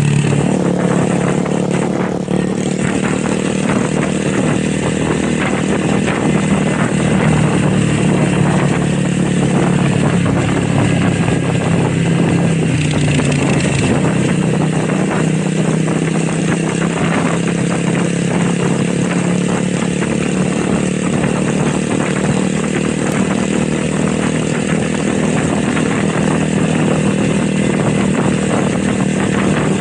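Motorcycle engine and exhaust running steadily under way, with a brief dip in pitch about halfway through.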